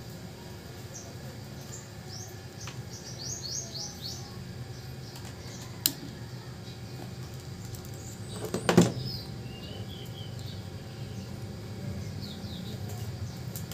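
Small birds chirping in the background in quick runs of short, high, falling chirps, over a steady low hum. A sharp click comes about six seconds in, and a louder knock comes near nine seconds.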